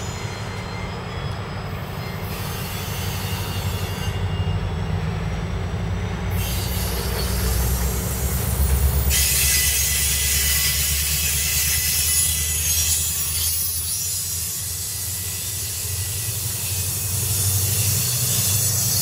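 A MARC commuter train's bilevel passenger cars passing at close range, with wheels rolling on the rails and a high squeal from about halfway through. Underneath is the low rumble of diesel locomotive engines, growing stronger as the locomotives near, toward the end.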